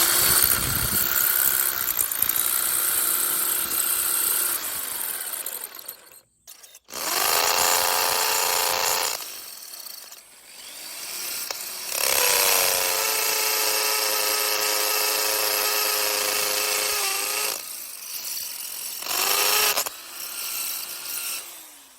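Electric drill boring a hole through a natural stone, running in about four long spells with short pauses between, the motor's pitch falling as it spins down at each stop.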